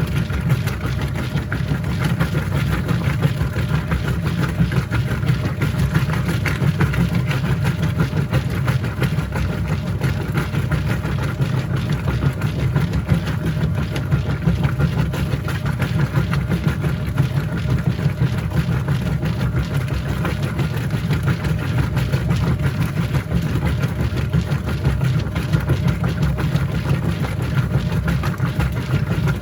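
Whirlpool top-load washing machine running mid-cycle: a steady low motor hum with a constant busy churn over it, unchanging throughout.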